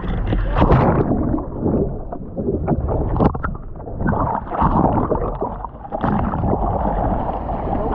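Seawater sloshing and splashing close to the microphone in the surf, with irregular sharp splashes and wind on the microphone.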